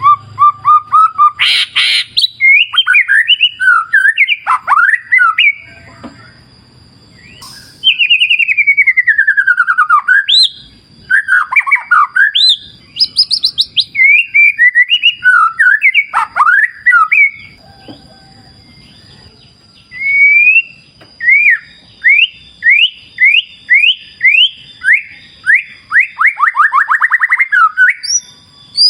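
White-rumped shama singing: loud, varied whistled phrases that glide up and down, with a long falling whistle about eight seconds in and a run of quick rising notes near the end.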